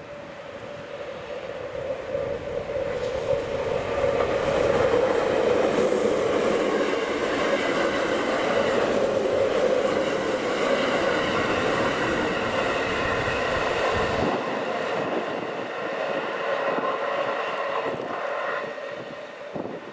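JR West 681-series electric limited express train passing at speed over snow-covered track. It builds up as it approaches, runs loud for about ten seconds as the cars go by, then the low rumble drops away suddenly about two-thirds through and the rest fades near the end as the tail end draws off.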